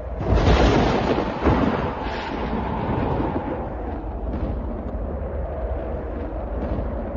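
A thunderclap: a sharp crack about a quarter second in and a second one about a second and a half in, then a long rolling rumble. A steady howl of storm wind runs underneath.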